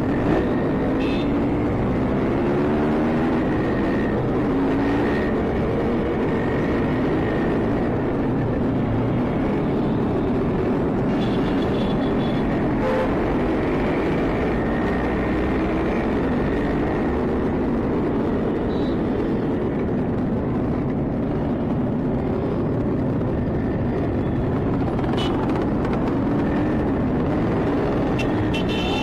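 Two-stroke Yamaha RX motorcycle engines running in a group ride through traffic, the nearest engine's pitch rising and falling as it revs and eases off. A few short horn beeps sound about a second in, around the middle and near the end.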